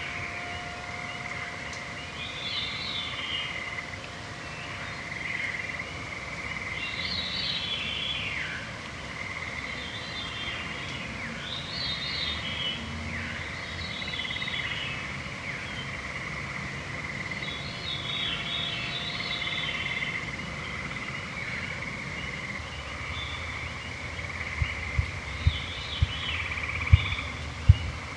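Evening woodland chorus: songbirds sing repeated phrases every few seconds, some falling in pitch, over a steady high trilling hum. Near the end, a run of low thumps starts and grows louder.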